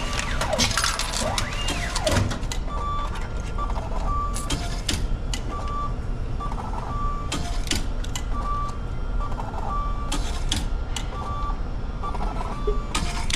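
Ticket vending machine beeping while it issues meal tickets: a short high beep repeating about once a second, alternating with a softer lower tone, with scattered clicks and a steady low hum under it.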